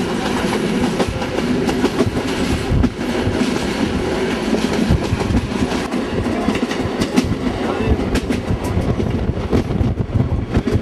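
Railway carriage running along the track: a steady low rolling noise with the clickety-clack of wheels over rail joints, the sharp clicks coming more often near the end.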